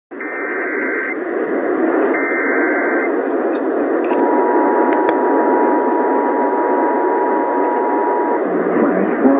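Weather radio receiver hissing with static, carrying two one-second bursts of warbling SAME alert data, then the steady single-pitch NOAA Weather Radio warning alarm tone for about four seconds. This is the alert header and alarm that open a National Weather Service warning broadcast.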